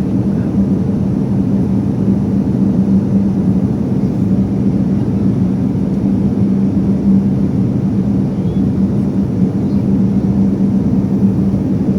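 Airliner cabin noise: a steady, low rush of jet engines and airflow, with an unchanging hum running through it.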